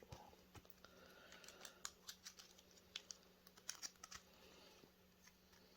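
Faint, scattered clicks and snips of hand cutters working parts off a projector's steel frame.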